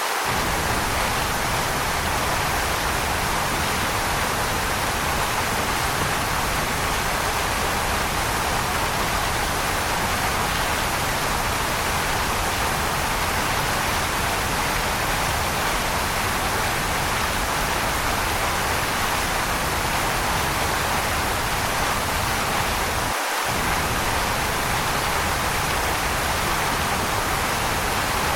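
Waterfall with water pouring steadily, an even rushing hiss, its low rumble dropping out for a moment near the end.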